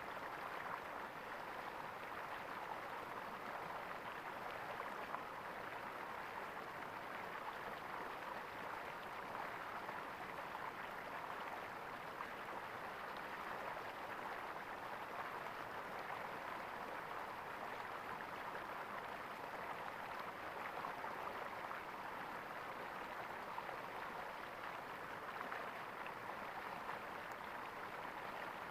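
Flowing water gurgling steadily, an even rushing sound with no breaks.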